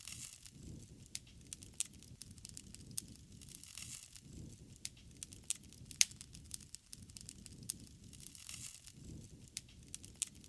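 Wood fire crackling, with sharp pops at irregular intervals, the loudest about six seconds in, over a soft low rush of flames that swells and fades.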